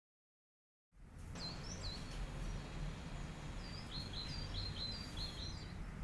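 Birdsong: short, high chirps in two quick bouts over a steady low background rumble, the sound fading in about a second in.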